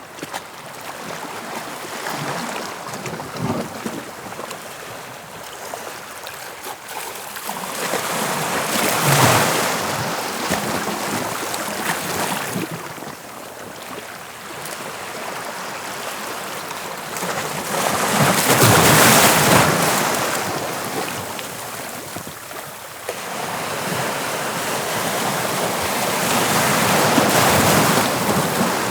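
Sea waves breaking, a steady wash of surf that swells three times, roughly every nine seconds, each time a wave breaks, and falls back between.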